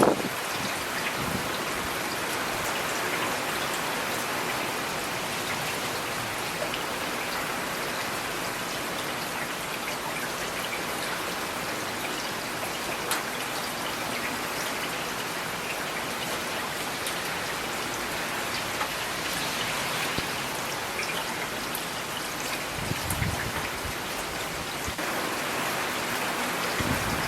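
Steady rain falling, a dense even patter with individual drops ticking through it. A brief low rumble comes near the end.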